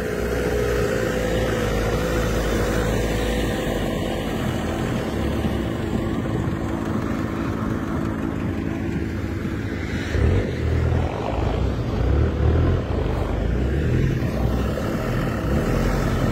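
Off-road 4x4 engine running steadily as it drives through deep snow. It starts with a steady droning tone, and louder, uneven low rumbling comes in from about ten seconds on.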